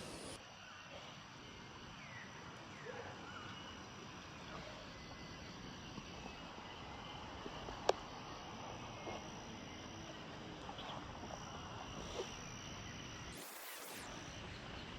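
Night-time outdoor ambience: insects chirping faintly over a steady hiss, with one sharp click about eight seconds in.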